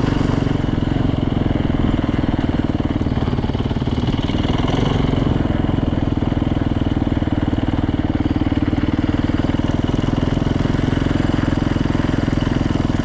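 Yamaha YZ450F's freshly rebuilt single-cylinder four-stroke engine running steadily on light throttle as the dirt bike is ridden at an easy cruise.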